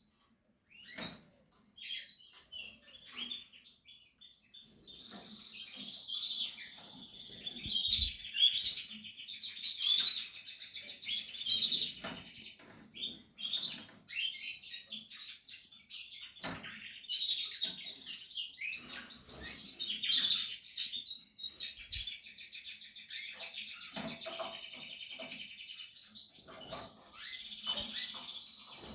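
Portuguese harlequin canary singing a long, continuous warbling song of rapid trills, starting a few seconds in. A few sharp taps sound through it.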